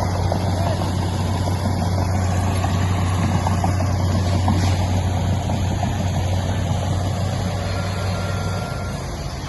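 Heavy diesel engine running steadily at a low, even note, its deep hum dropping away near the end.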